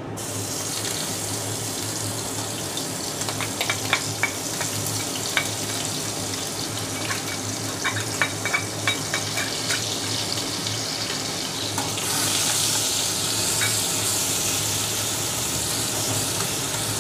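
Ginger-garlic paste sizzling in hot oil in a kadai, with a string of sharp metal clicks from a steel spoon knocking against the utensils between about three and ten seconds in. The sizzle grows louder about twelve seconds in.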